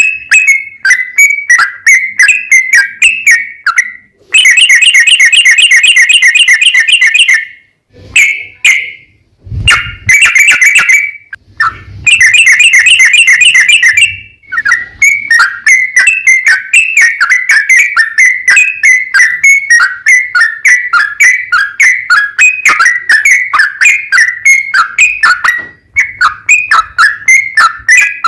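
Yellow-vented bulbul singing loudly in quick strings of short whistled chirps. Twice, a few seconds in and again around twelve seconds, these run into a long, very fast rattling trill, the 'ropel' prized in a songbird in full song (gacor).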